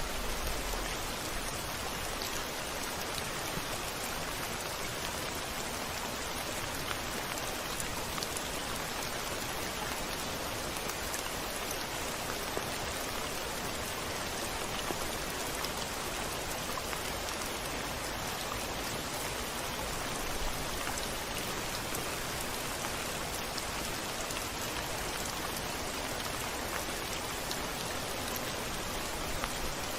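Steady rain falling against a window pane: an even hiss with fine scattered drop ticks.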